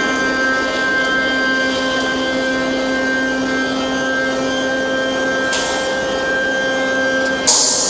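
BSG-300 universal crusher grinding line running steadily, a hum with several constant tones from its motors and blower. A hiss of air comes in about five and a half seconds in, and a louder, sudden hiss near the end.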